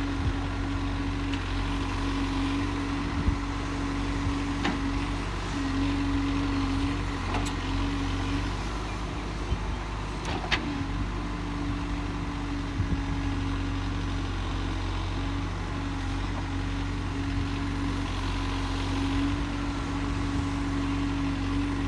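Case backhoe loader's diesel engine running steadily with a constant hum, with a few short sharp knocks over it.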